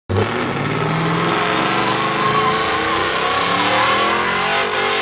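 Truck engine running hard at high revs, starting abruptly, with a wavering high squeal over it through the middle.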